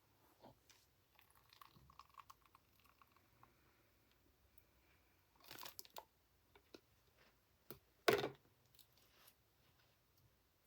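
Close handling noises: scattered soft crackles and taps, with a brief crunchy crackle about eight seconds in.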